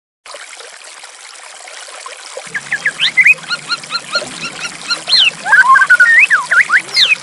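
Trickling running water starts a moment in, and from about two and a half seconds a white-rumped shama sings over it: quick runs of high repeated chirps and loud sweeping whistled notes.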